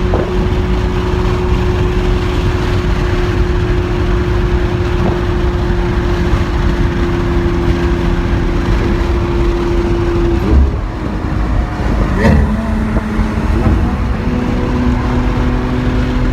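Lamborghini Aventador SV's V12 cruising, heard from inside the cabin with road noise. Its steady note breaks with a couple of knocks about ten to twelve seconds in and settles to a lower steady note.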